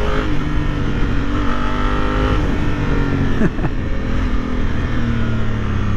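Honda Africa Twin CRF1000L's 1000cc twin engine running under way, its note holding fairly steady with small shifts in pitch and a brief break about three and a half seconds in.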